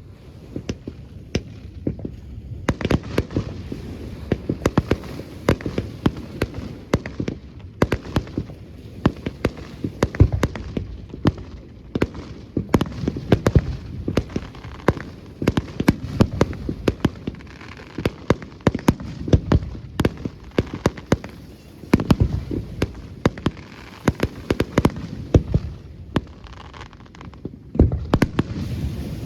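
Fireworks display: a rapid, irregular run of bangs and crackling bursts, several each second, with occasional louder booms.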